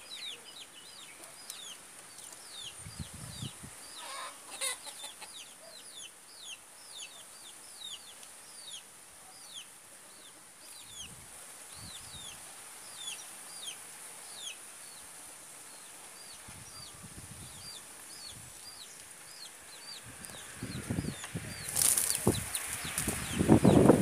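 A small bird chirping over and over, each chirp short, high and falling in pitch, about twice a second. Near the end a loud rushing noise builds up over it.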